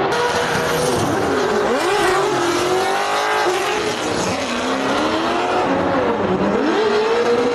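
High-revving drift car engines rising and falling in pitch repeatedly, with more than one engine heard at once. Sharp drops come about a second and a half in and again about six seconds in, and the revs climb to a peak around the middle.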